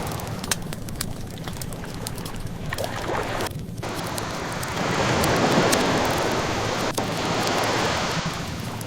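Ocean waves washing in, swelling to a peak about halfway through, over the crackling of a wood fire, which gives many small sharp pops.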